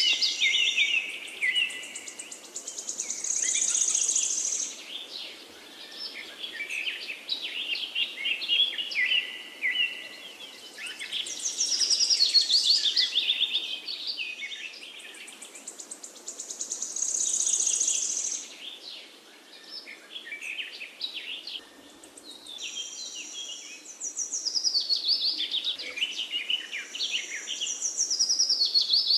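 Forest birdsong: several songbirds singing overlapping phrases of quick, high notes, swelling and fading every few seconds over a faint steady background hiss.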